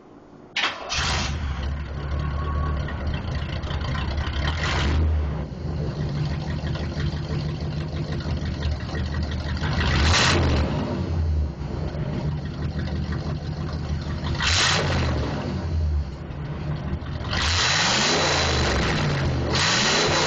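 A 1992 Camaro RS's LO3 V8, with an Edelbrock carburettor, runs through a straight-pipe exhaust with no catalytic converter and no muffler. It starts about half a second in and settles into a loud, lumpy idle. The throttle is blipped a few times, and a longer, higher rev comes near the end.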